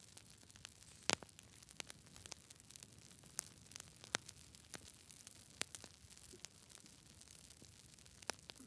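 Campfire crackling: wood burning with a soft hiss and irregular sharp pops, the loudest about a second in.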